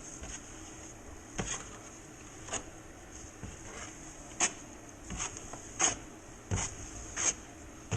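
Drywall knife scraping over tacky, half-set hot-mud joint compound on a ceiling patch. There are about seven short strokes at uneven intervals as the excess mud is slicked off.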